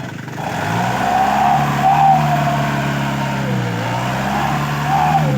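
Loaded truck's diesel engine revving hard under load as it reverses on a ruined road: the revs climb about half a second in, hold, dip briefly past the middle, rise again and fall away at the end.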